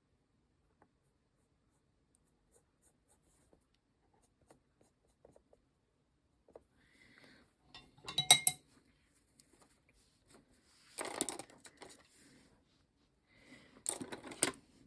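Small hard objects being handled on a work table: a few faint ticks, then three short bursts of clinking and clattering about eight, eleven and fourteen seconds in. The first burst is the loudest and rings briefly.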